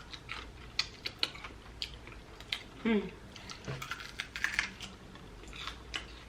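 Close-miked chewing of sauced fried chicken wings: scattered sharp crunches and wet mouth clicks, with a short hum from the eater about three seconds in.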